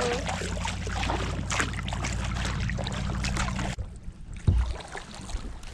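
Kayak moving fast through the water: paddle splashes and water rushing along the hull, with wind rumbling on the microphone. The noise drops away almost four seconds in, followed by a single thump.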